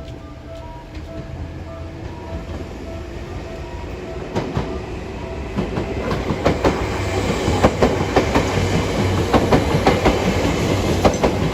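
A Seibu Railway electric train approaching and passing, growing steadily louder, its wheels clicking rapidly over the rail joints. A level-crossing bell dings faintly at a steady beat in the first few seconds.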